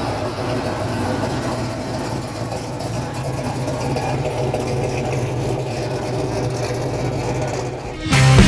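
A car engine idling steadily, low and even, with faint background voices. Loud rock music with guitar cuts in suddenly near the end.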